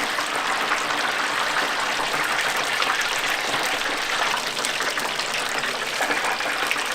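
Battered frogs deep-frying in hot oil, with a steady hiss of sizzling and bubbling.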